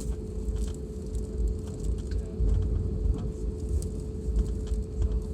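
Airliner cabin noise before takeoff: a steady engine hum with a constant mid-pitched tone over a low, uneven rumble.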